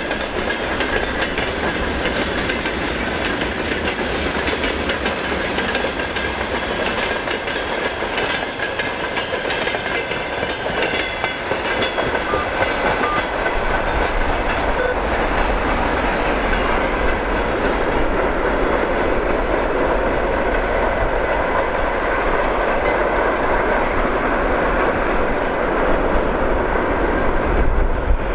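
Freight train's covered hopper wagons rolling past, wheels clicking over the rail joints. The clicking dies away about halfway through as the last wagon goes by, leaving a steady rushing noise with a low rumble.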